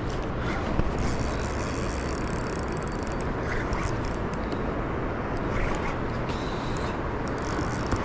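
Steady rushing of the Niagara River's fast, heavy current around a wading angler.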